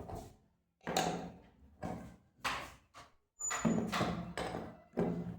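A wrench and nut-and-bolt hardware knocking and clinking against the body of a homemade toy tractor as the nuts are tightened: about six short knocks, each dying away quickly, with brief pauses between them.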